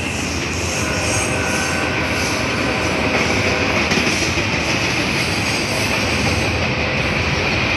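Double-stack container freight train passing close by, a steady, loud noise of the cars rolling along the track.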